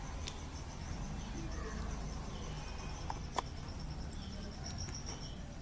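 Crickets chirping: a steady, high-pitched pulsing trill over a low background rumble, with a few faint clicks.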